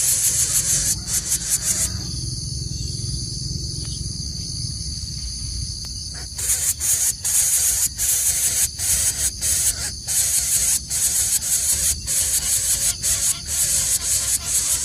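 High-pitched insect chorus, cicada-like, buzzing in rapid pulses of about two a second. It settles into a steadier high drone for a few seconds before the pulsing resumes, over a low rumble of wind.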